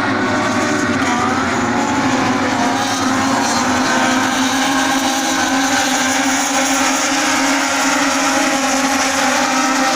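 Moto2 racing motorcycles, with Triumph 765 cc three-cylinder engines, running at high revs on track. The engine note is steady and continuous, with several pitches that waver slightly.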